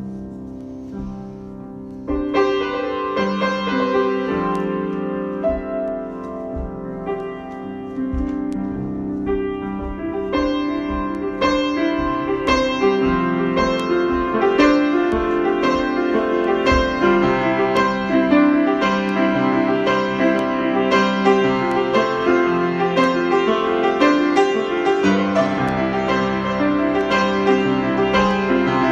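Improvised solo piano playing: soft sustained chords at first, a louder entry about two seconds in, and fuller, busier playing from about ten seconds in.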